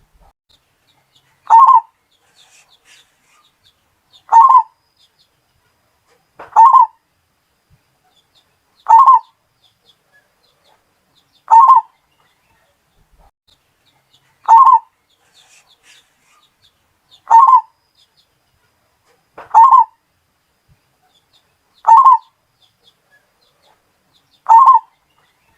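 Zebra dove (perkutut) of the Bali strain cooing: one short call, repeated about every two and a half seconds, ten times.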